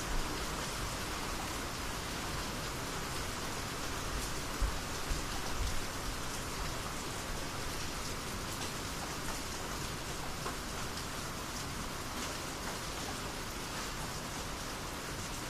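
Steady rainy-season rain, with individual drops striking close by and a few heavier hits about five seconds in.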